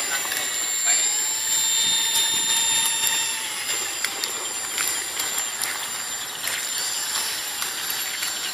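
Motors and propellers of a radio-controlled foam C-130 Hercules model in flight: a steady high whine that wavers slightly in pitch and grows gradually fainter.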